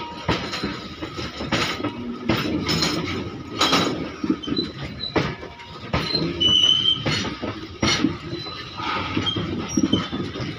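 Loaded open-top freight wagons of a long goods train rolling past, their wheels clacking and knocking irregularly over the rails. One short high squeal comes about six and a half seconds in.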